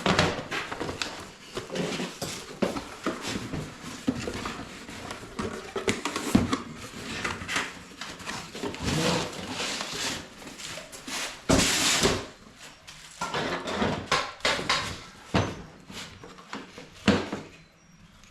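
Irregular knocks, clicks and scraping rustles of a Tesla Wall Connector's back plate and parts being handled and set down on a work surface, with one louder rustling burst about two-thirds of the way through and a sharp knock near the end.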